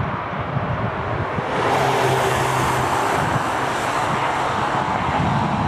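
A sports car's engine running hard as the car comes down the straight towards the listener. The sound grows louder and brighter about one and a half seconds in, holds a steady engine note for a while, and stays loud as the car draws near.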